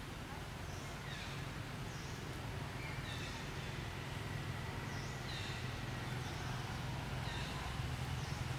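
Short, high-pitched animal chirps repeating irregularly over a steady background hum and hiss.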